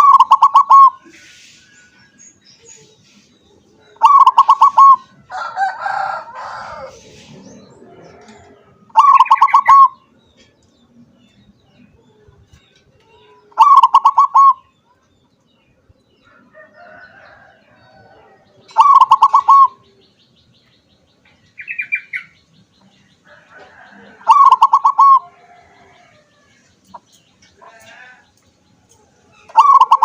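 A crossbred perkutut (zebra dove) cooing its song over and over, about every five seconds. Each phrase is a quick run of staccato notes ending in a coo. Fainter calls from other birds sound in the gaps.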